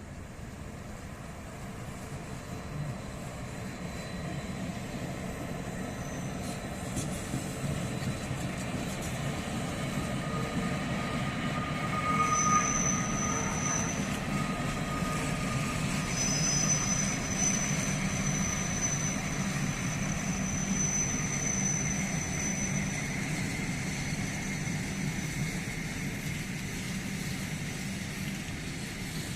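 Bernina Express train running over the curved track of the spiral viaduct, its rumble growing louder as it approaches. High thin wheel squeal from the curve sounds briefly about twelve seconds in and again for several seconds a little later.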